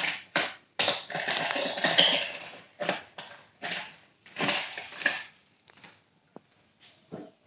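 Hard objects clattering and scraping in an irregular run of knocks and rattles, busiest and loudest in the first couple of seconds, then coming in shorter, sparser bursts that thin out toward the end.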